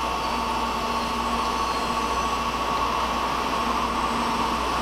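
N700 series Shinkansen train passing close by at speed: a steady rushing noise with a steady high whine on top.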